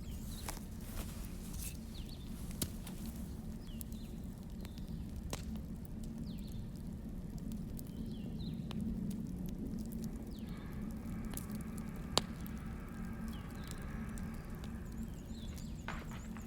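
Wood fire crackling: sparse, irregular sharp pops and snaps over a steady low rumble of burning logs.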